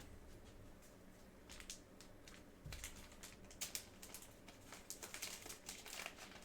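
Faint, irregular light clicks and taps of small objects being handled at a desk, coming thicker from about a second and a half in.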